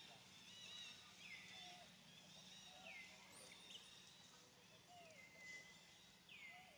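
Faint bird calls: four high calls, each sweeping down in pitch and then holding briefly, with softer short chirps between them, over a faint steady low hum.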